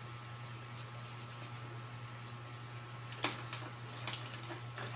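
A steady low hum with a few sharp clicks and light scratching from small objects being handled, the loudest click about three seconds in.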